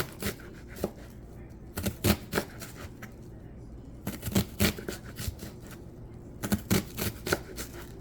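Kitchen knife slicing onion on a cutting board: irregular sharp knocks of the blade hitting the board, coming in short clusters.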